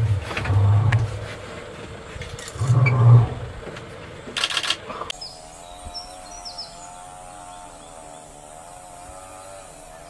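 Male lion giving two deep, low grunts about two seconds apart, the second the louder. After a cut, a steady wavering hum with a few faint bird chirps.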